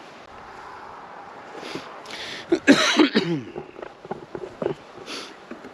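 A person coughing and clearing their throat, a few harsh bursts clustered in the middle and one more near the end.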